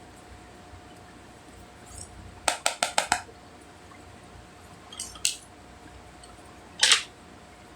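Hard cosmetic containers and packaging clicking and tapping as they are handled: a quick run of about six clicks, two more a couple of seconds later, then one louder click near the end.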